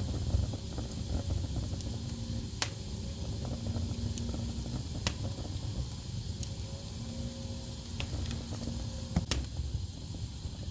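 Wood fire burning in a fireplace: a steady low rumble of flames with crackling and several sharp pops from the logs.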